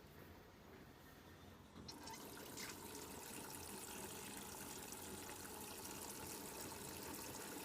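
Faint, steady hiss of water running into the drum of a Sanyo front-loading washing machine, with a faint whine, starting about two seconds in; the machine is filling normally.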